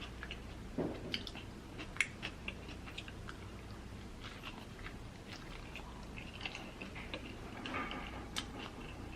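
A person chewing food, with scattered short clicks and mouth sounds.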